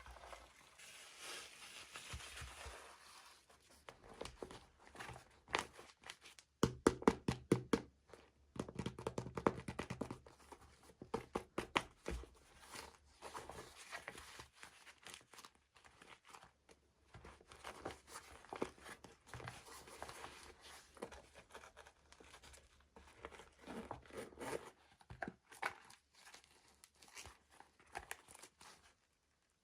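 Hands unboxing miniature plastic toys: packaging crinkling and tearing, with light clicks and taps of small plastic pieces. A quick run of rapid clicking comes a few seconds in.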